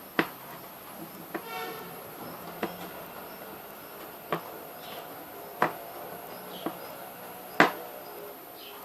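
Irregular sharp taps or clicks, about seven of them, the loudest near the end, with a brief squeak about a second and a half in, over a faint steady high whine.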